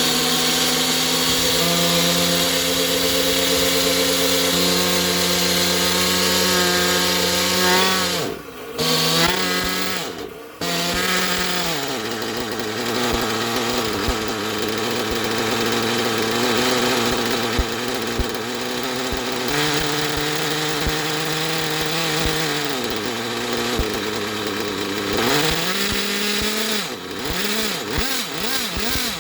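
Hyper 3-port turbo nitro RC engine in an OFNA Hyper 7 buggy running on Traxxas Top Fuel 33%, holding a steady high pitch at first, then dropping to an unsteady, wavering idle with a couple of short throttle blips. It is running really rich on the new fuel with needles still set for 20% nitro.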